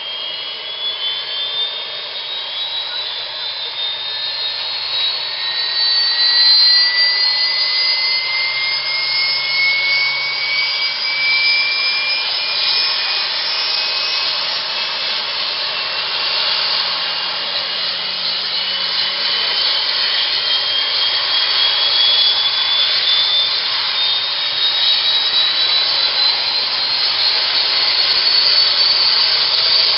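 Army Cougar helicopter's turbine engines spooling up: a whine that climbs slowly and steadily in pitch over a loud, steady rush of noise.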